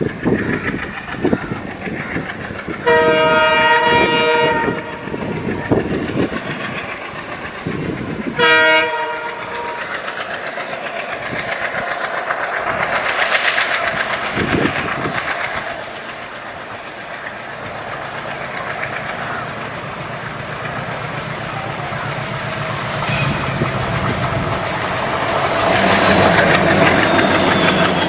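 Diesel train horn sounding twice, a long blast and then a short one, followed by the steady rumble and wheel clatter of the train running past, growing louder near the end.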